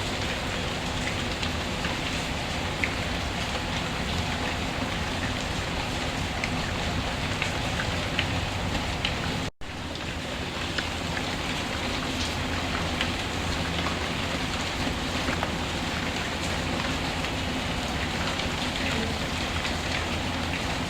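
Steady rain falling, an even hiss with scattered small ticks of drops, cutting out for a moment about halfway through.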